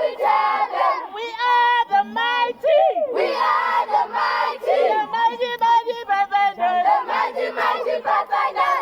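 A group of young voices shouting a call-and-response marching chant together, many voices overlapping.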